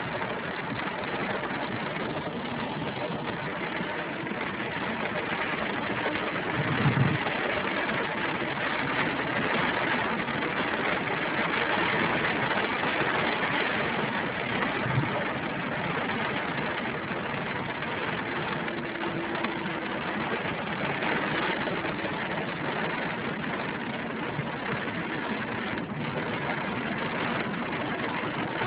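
Heavy rain on a car's roof and windscreen, heard from inside the cabin as a steady hiss, with a short low thump about seven seconds in.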